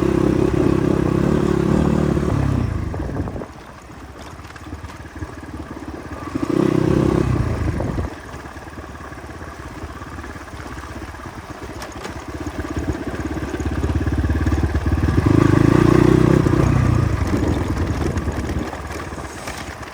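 Motorcycle engine under throttle, loud and revving for the first few seconds, then dropping off sharply. It gives a short burst of throttle about seven seconds in, then builds up steadily again to a peak about sixteen seconds in before easing.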